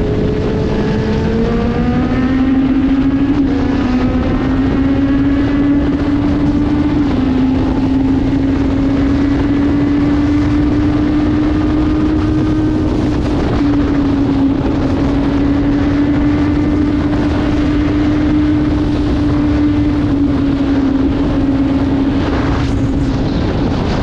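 Motorcycle engine running at steady high revs while riding at speed, the revs climbing a little in the first couple of seconds and then holding, with heavy wind rush on the microphone.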